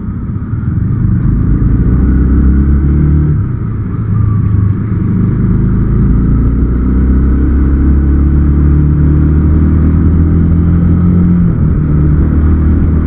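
Motorcycle engine running steadily at highway speed, picked up by a sealed helmet-mounted camera, with a low wind and road rumble underneath. The engine note eases briefly about four seconds in and shifts pitch again near the end.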